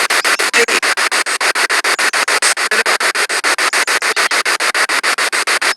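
Spirit box radio sweeping through stations: a rapid, even chopping of static hiss, about eight bursts a second.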